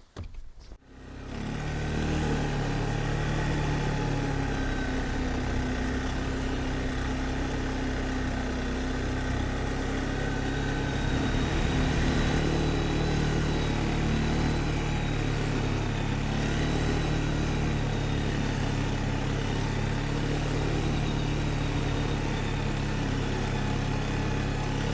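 Off-road vehicle engine starting up about a second in, then running steadily.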